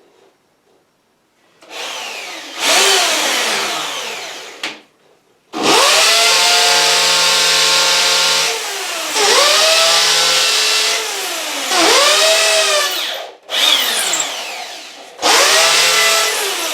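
Electric hammer drill with a 5 mm bit boring a hole into a wall, in several runs with short stops. The motor's whine dips and recovers again and again as the bit is pushed in and eased back out to clear the dust and keep it from jamming.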